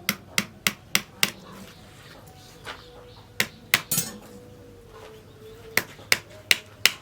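Hammer blows in quick runs with a light metallic ring: five strikes about three a second, two more about halfway through, then four more near the end.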